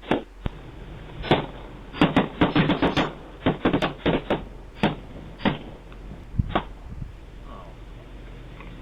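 A rapid, irregular string of balloons popping: about fifteen sharp pops, bunched together in the middle and thinning out toward the end.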